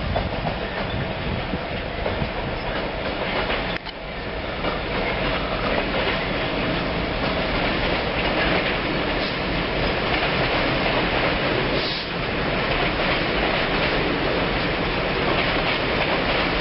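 Container freight train passing, its wagons rumbling and clattering steadily over the rails. It is hauled by a Class 66 diesel locomotive.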